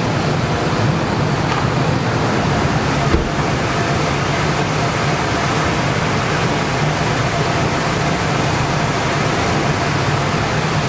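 Steady rushing roar of large air-moving fans, with a low hum underneath and a single click about three seconds in.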